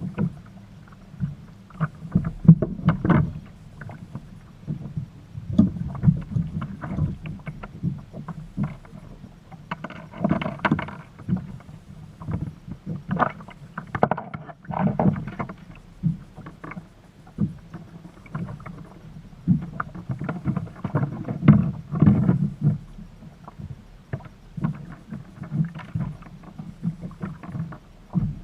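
Water slapping and sloshing against a kayak hull, with irregular knocks and splashes every second or so and a longer wash of splashing about ten seconds in.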